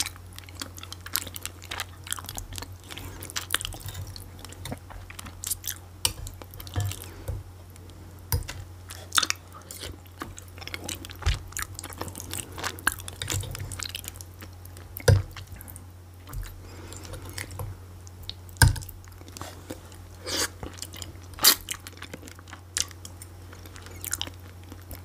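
Close-miked eating: chewing and wet mouth sounds of a person working through a meal, with scattered sharp clicks, a few of them louder in the second half.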